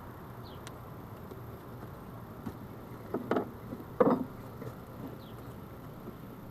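Short clattering knocks of wooden beehive parts being handled, a cluster about three seconds in and a sharper one about four seconds in, over a steady low background hum and faint high chirps.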